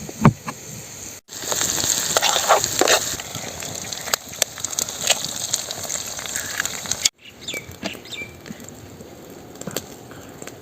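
Food sizzling and crackling as it fries, loudest in the middle stretch and quieter with scattered crackles near the end. The sound cuts out abruptly about a second in and again about seven seconds in.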